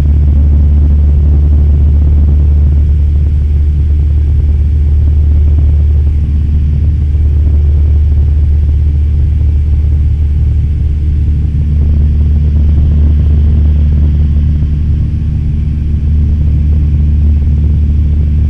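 Cessna 172M's four-cylinder Lycoming O-320 engine and propeller droning steadily in flight.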